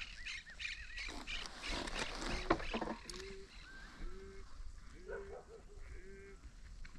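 Animal calls: a series of about five short, arching, pitched calls in the second half, with higher chirping calls early on, over a low steady rumble.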